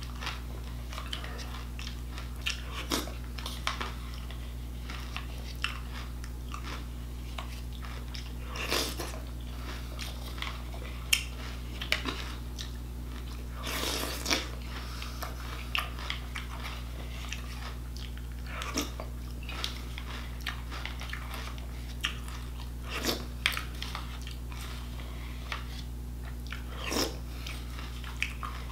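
Close-up chewing and crunching of a mouthful of Frosted Flakes cereal, in irregular bursts, with occasional clicks of a plastic spoon against a plastic bowl. A steady low hum runs underneath.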